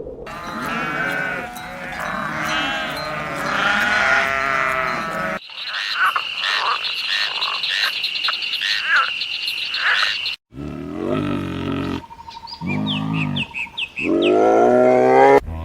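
A string of short animal-call recordings spliced one after another with abrupt cuts, among them frogs croaking and farm animals calling. The last call, near the end, is a long rising one.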